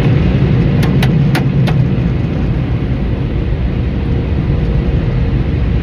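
Automatic car wash machinery running steadily, heard from inside the car as it passes through, with a few sharp ticks about a second in.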